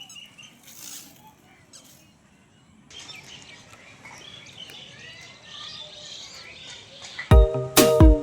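Faint outdoor background with small birds chirping now and then. About seven seconds in, loud music with a strong regular beat starts suddenly.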